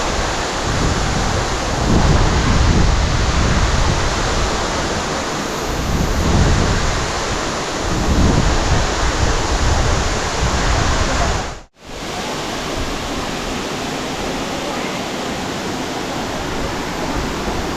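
Waterfall rushing, a loud steady roar of falling water with heavy low rumbling that swells and fades. Just after two-thirds of the way through, it cuts out abruptly and resumes as a steadier, lighter rush.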